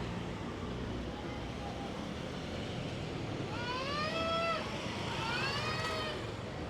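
Town-square street ambience with traffic running as a steady low rumble. About halfway through, two high-pitched calls, each about a second long and rising in pitch, sound one after the other.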